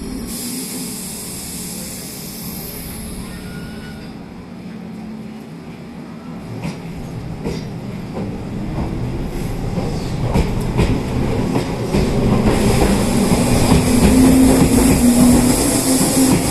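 Tobu 8000 series electric train pulling away, growing louder as it gathers speed, with wheels clicking over rail joints and a motor hum that builds up in the second half. A hiss sounds in the first few seconds.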